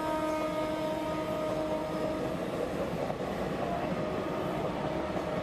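Passenger trains running on rails, a steady rumble of wheels and coaches, with a held train horn tone that fades out about two and a half seconds in.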